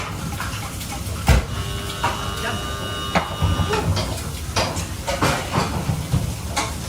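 Kitchen cooking sounds: pots and utensils knocking and clattering over a steady low rumble, with a brief steady high tone lasting about a second and a half starting around two seconds in.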